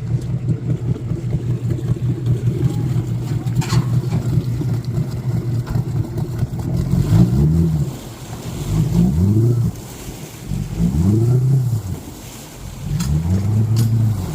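Motorboat engine running at a steady pitch, then from about halfway through its pitch rises and falls again and again, roughly every two seconds.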